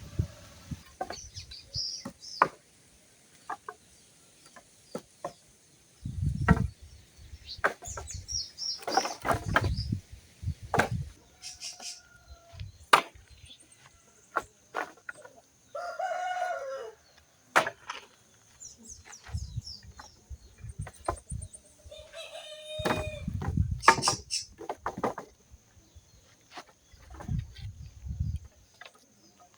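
A rooster crowing twice, about halfway through and again some six seconds later, amid scattered sharp clicks and knocks and a few dull low thumps.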